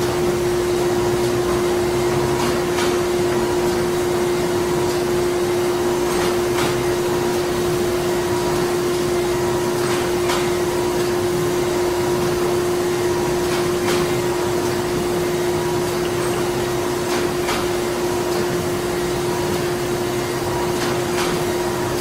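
Printing-plant machinery running steadily: a constant mechanical hum with a steady low tone, broken by irregular sharp clicks every few seconds.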